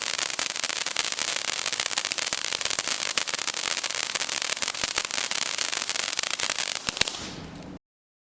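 Fountain firework burning: a steady high hiss thick with rapid crackling, with one louder crack near the end. It weakens and then cuts off suddenly.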